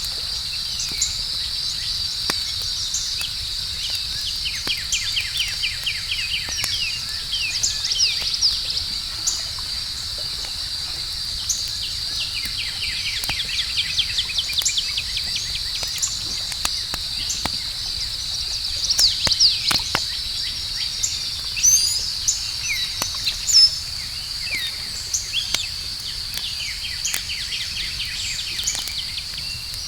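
Crickets trilling in a steady, unbroken high chorus, with birds chirping in quick trilled runs throughout. Scattered sharp pops of a crackling campfire sound over them.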